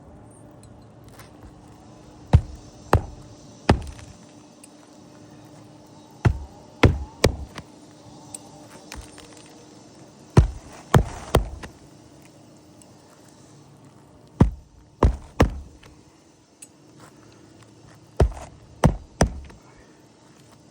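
Hammer driving roofing nails to fasten a replacement shingle: five rounds of three sharp blows each, about one nail every four seconds.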